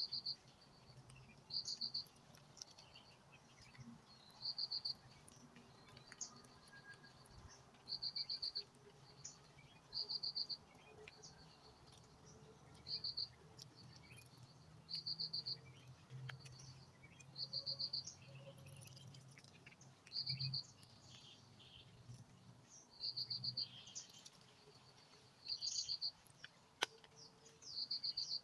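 A small animal calling: a short high trill of about half a dozen rapid pulses, repeated every two to three seconds, with fainter chirps in between.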